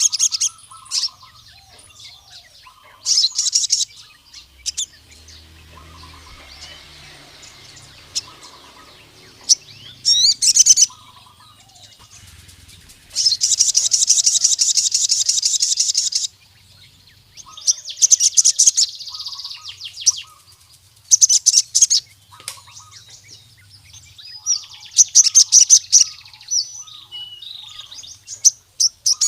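Crimson sunbird (sogon) singing: bursts of fast, high-pitched trilling, one held for about three seconds midway, with fainter chirps between the bursts.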